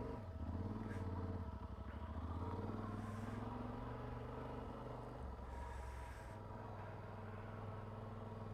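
Motorcycle engine running as the bike rides off at low speed, its pitch stepping up and down a few times with throttle and gear changes.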